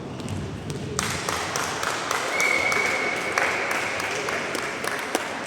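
Clapping and cheering in a sports hall after a volleyball rally, starting suddenly about a second in, with sharp claps and a high steady tone held for about a second in the middle.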